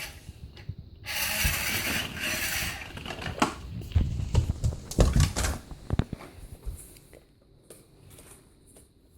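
Toy remote-control monster truck driving, its small electric motor whirring, followed by a run of knocks and clatter that settles into a few quieter ticks.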